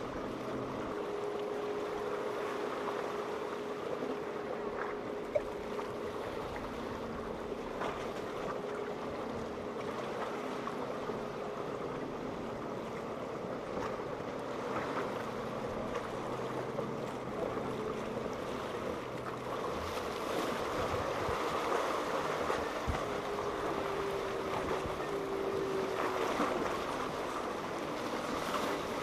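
Boat engines running as boats pass through the inlet, with a steady engine tone early on and again near the end, over the continuous wash of waves.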